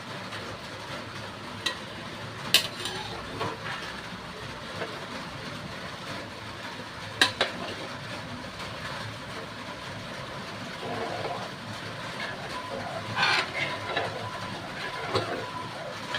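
Fish-curry masala sizzling steadily in a pan on the stove, with a few sharp clinks, as of a spoon against the pan, while it is stirred.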